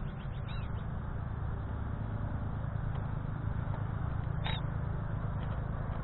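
A few short, high bird chirps over a steady low rumble: one chirp about half a second in and another about four and a half seconds in.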